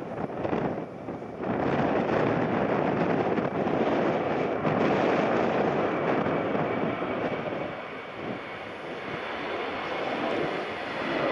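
Jet airliner engine noise mixed with strong gusty wind buffeting the microphone, a steady heavy rush that eases a little about two-thirds of the way through and builds again near the end.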